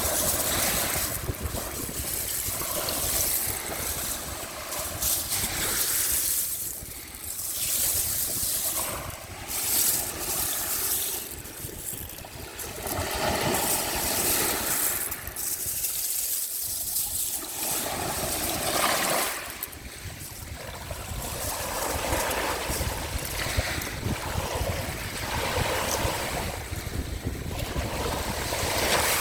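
Sea waves washing ashore, surging and easing every few seconds, with wind rumbling on the microphone.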